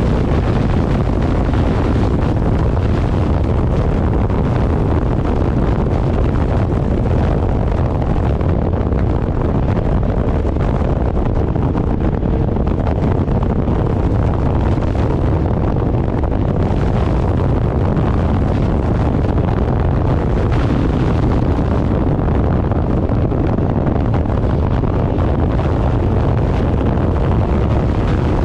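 Heavy, steady wind buffeting on the microphone at riding speed, a dense low rumble that drowns out the vehicle itself.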